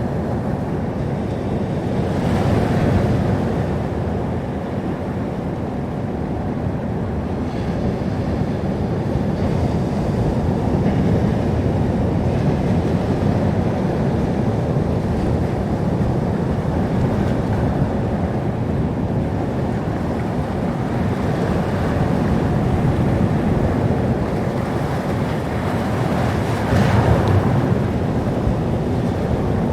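Sea surf: continuous wash of waves, with two louder waves breaking, one about three seconds in and one near the end.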